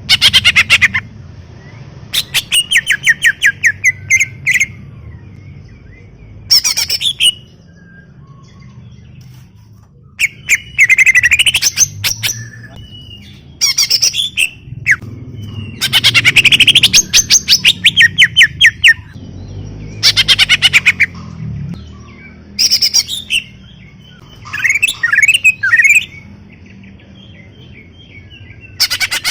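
Cucak ijo (green leafbird) singing loudly and continuously. It gives a string of fast, rattling phrases of rapidly repeated notes mixed with rising and falling whistles, each from half a second to about three seconds long, with short pauses between.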